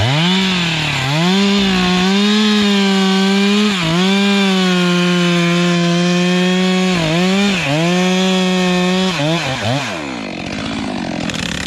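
Two-stroke chainsaw running at full throttle, cutting wood: its high engine note rises at the start, holds with a few brief dips in revs, then winds down about nine seconds in.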